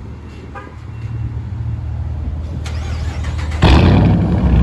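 Dodge Charger engine through a straight-pipe exhaust, its muffler and resonators deleted. A deep rumble comes up about a second in and builds, then jumps suddenly much louder near the end.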